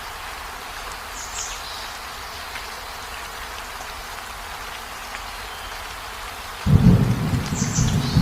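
Steady rain falling. A low rumble of thunder breaks in suddenly near the end and keeps rolling.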